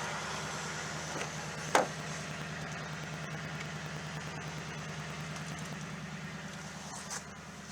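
2014 Toyota Tundra Crew Cab's engine idling steadily, with a short sharp click about two seconds in and a fainter one near the end.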